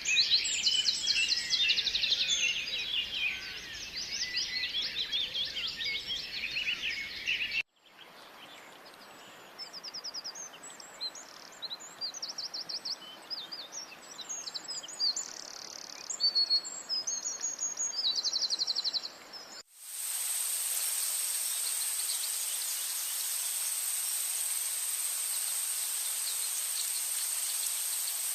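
Rainforest ambience in three abruptly cut sections: a dense chorus of chirping bird calls, then quieter high-pitched bird trills, then, about 20 seconds in, a steady high insect drone with a constant whine.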